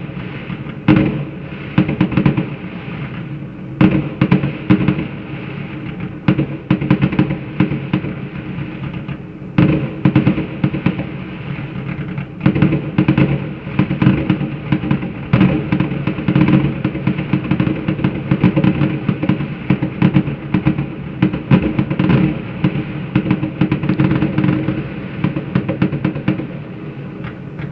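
Fireworks salute going off in a dense, continuous barrage of bangs and crackles, with many loud peaks throughout.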